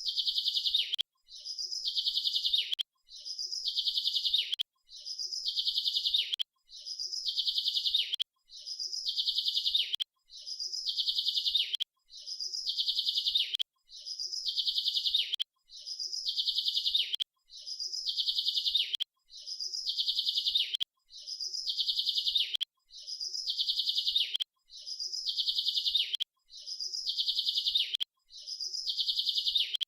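Bird song: one rapid, high trilled phrase about a second and a half long that ends in a falling tail. It repeats identically about every two seconds, some sixteen times over.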